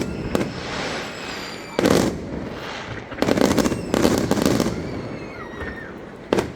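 Fireworks going off: several sudden bursts of bangs and crackling, with thin falling whistles between them.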